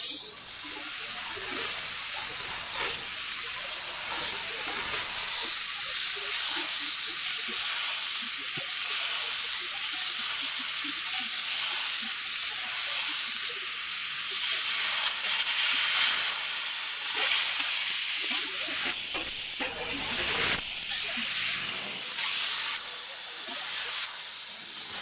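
Fiber laser cutting machine cutting stainless steel: a steady high hiss from the cutting head's gas jet, which comes on suddenly and grows a little louder in the middle.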